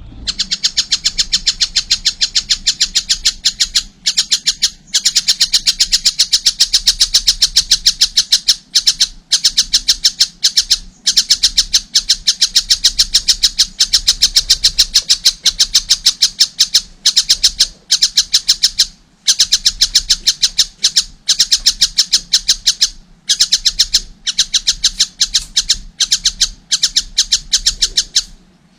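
Juvenile collared kingfisher calling non-stop: a rapid run of sharp, harsh notes, several a second, in long bursts broken by short pauses.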